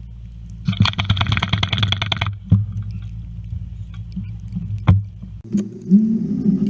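Hummer H3 heard from inside the cabin while driving on snow: a steady low engine and road rumble, with a rapid clicking rattle for about a second and a half near the start and two sharp knocks. About five seconds in, the low rumble drops away and a rougher, higher rumble takes over.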